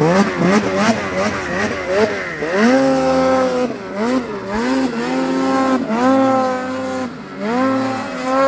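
Snowmobile engines revving, the pitch climbing and dropping again and again as the throttle is worked, with more than one machine heard over the first couple of seconds.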